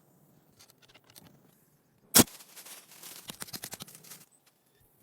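One sharp, loud knock about two seconds in, followed by a second or two of quick clicking and rustling.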